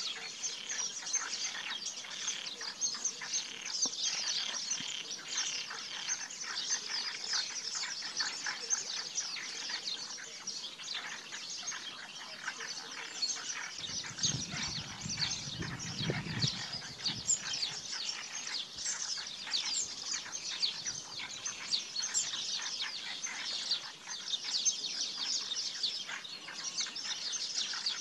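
Dense chorus of many small birds chirping continuously, with overlapping short high calls. A brief low rumble sounds about halfway through.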